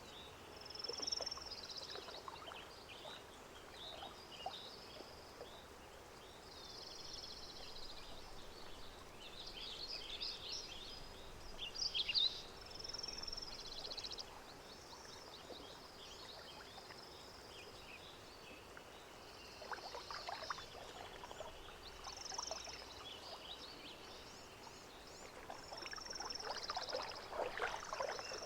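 Lake ambience: birds chirping in short high calls over a soft hiss, with gentle water lapping and splashing that swells twice, about two-thirds of the way in and near the end.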